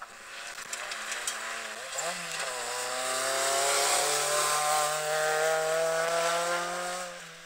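Peugeot 206 rally car's engine driving past at speed. The note climbs about two seconds in, then holds nearly steady; it is loudest mid-pass and fades near the end as the car moves away.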